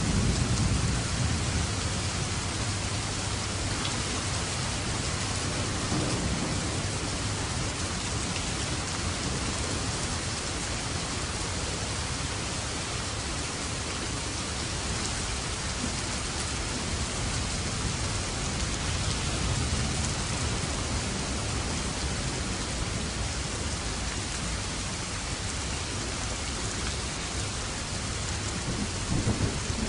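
Steady heavy rain falling, with low thunder rumbling in under it several times: at the start, about six seconds in, around twenty seconds in, and again near the end.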